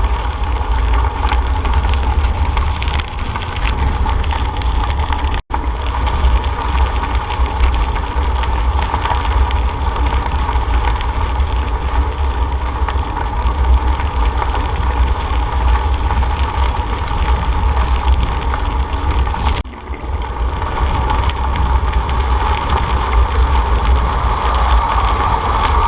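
Wind buffeting the microphone of a camera riding on a moving bicycle, a steady heavy rumble mixed with tyre and road noise. It cuts out for an instant about five seconds in.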